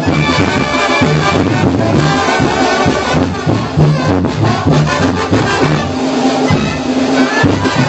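Mexican banda brass band playing an instrumental passage, with trumpets and trombones over a steady bass line and percussion.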